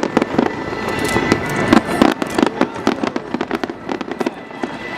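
Aerial fireworks bursting in rapid succession: a dense string of sharp pops and crackles that thins a little after the middle.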